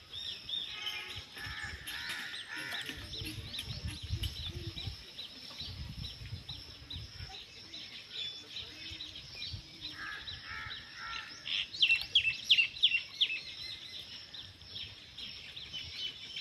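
Several birds chirping and calling over a steady high hiss, with a burst of loud, sharp chirps about twelve seconds in. Low rumbles come and go around four to seven seconds in.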